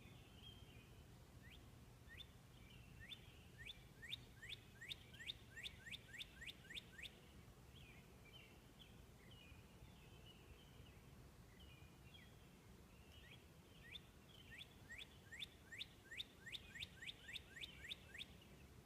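Northern cardinal singing: two faint phrases, each a run of about a dozen quick, slurred whistled notes that come closer together as the phrase goes on. Softer twittering fills the gap between the phrases.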